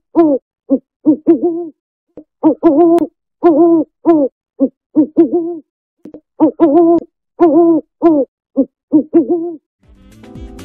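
An owl hooting: short, low hoots, often in pairs, coming in runs of several notes with short pauses between runs. A faint steady hum begins near the end.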